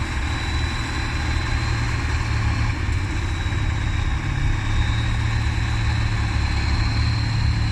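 Trial truck's engine running steadily at low revs, with a thin, steady high whine above it.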